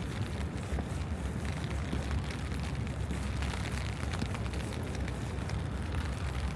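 Steady rainy street ambience: a constant low rumble with scattered light ticks of rain patter.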